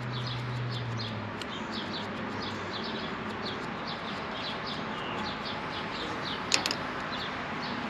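Steady hiss of a soldering torch heating a copper pipe joint, with rapid short, high chirps over it and a sharp click about six and a half seconds in.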